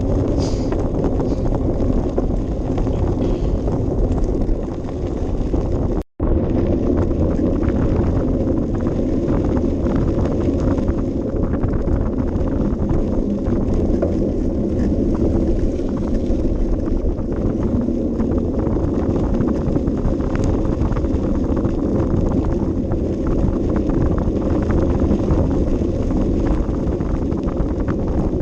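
Wind buffeting a small action camera's microphone, with a steady low rumble and scattered rattling clicks. The sound cuts out completely for a moment about six seconds in.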